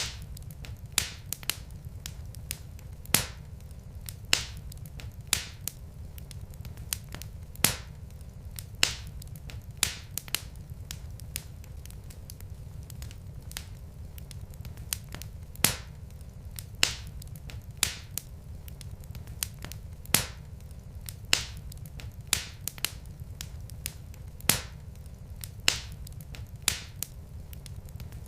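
Wood fire crackling: sharp pops and snaps, several a second, over a steady low rumble of the burning logs.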